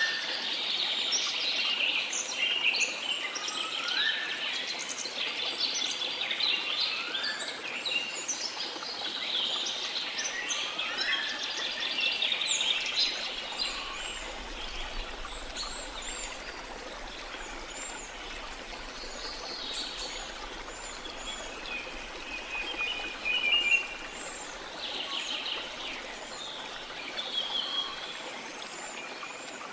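Tropical rainforest birds chirping and singing over the steady rush of a waterfall. The bird calls are dense in the first half and thin out later, with several rising whistles early on.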